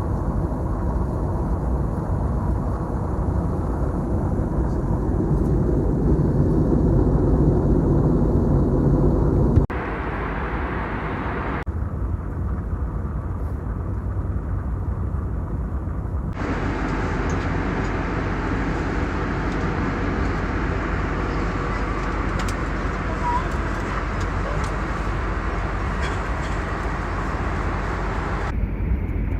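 Steady roar of an Airbus A321neo's engines and airflow heard inside the cabin. It changes abruptly in level and tone several times, as if separate recordings were spliced together.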